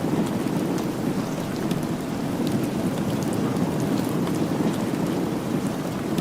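Steady rain with a dense low wash, dotted with faint, scattered sharp ticks.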